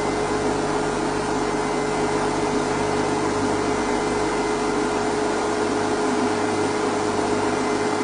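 Vehicle engine idling steadily, an even hum with a constant drone.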